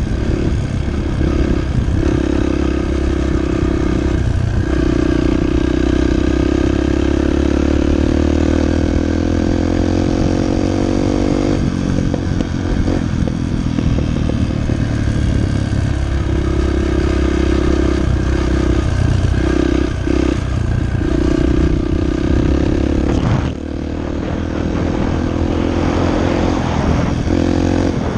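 Dirt bike engine running hard, revving up and easing off again and again as the bike is ridden, its pitch climbing and then dropping sharply. The level dips briefly about 23 seconds in.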